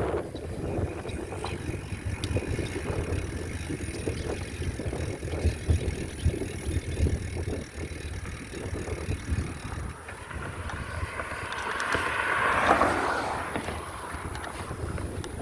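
Bicycle ride sound: wind buffeting the microphone over rolling tyre and road noise with small rattles, swelling louder about twelve seconds in.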